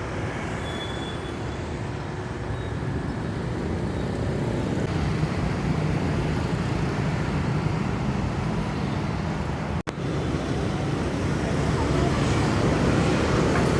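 Steady road traffic noise, a dense low rumble that slowly grows louder, with a brief sudden dropout a little under ten seconds in.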